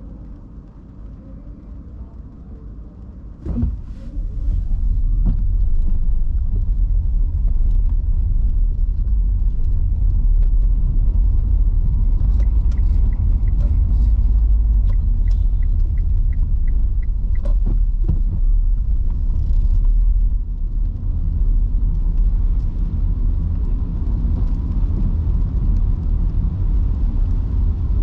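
A car driving in heavy rain: low tyre-and-road rumble. It starts quiet, a knock comes about three and a half seconds in, and then the rumble turns loud and stays steady. Faint, rapid, evenly spaced ticking comes in the middle.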